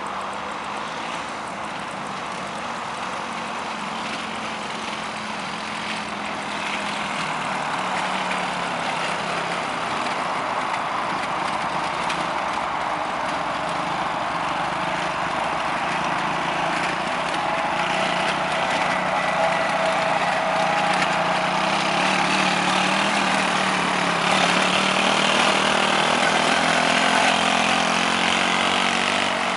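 Quad bike engine running steadily, growing gradually louder.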